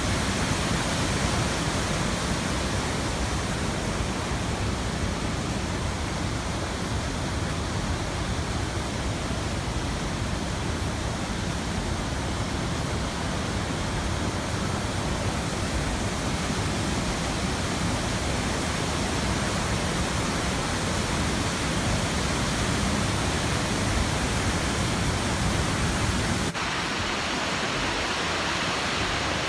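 Waterfall rushing: a steady, even wash of falling water with a heavy low rumble. Near the end it changes abruptly and the low rumble drops away.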